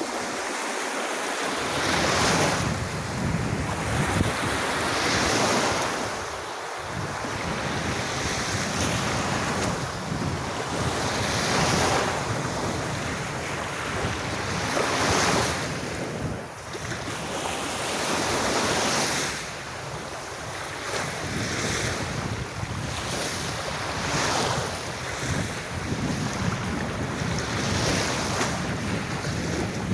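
Sea waves washing onto a beach, a steady surf noise that swells and eases every few seconds, with wind buffeting the microphone.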